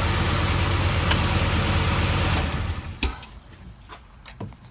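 Chevrolet Impala SS's 5.3-litre V8 idling steadily on a test run after an alternator change, with the serpentine belt staying on. It is switched off about two and a half seconds in and dies away within half a second, and a sharp click follows.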